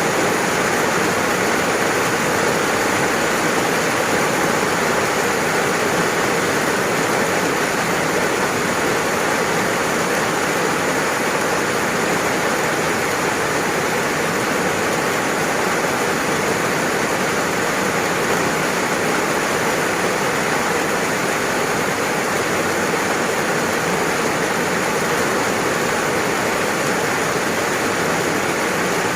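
Steady rain, an even unbroken hiss with no single drops or thunder standing out.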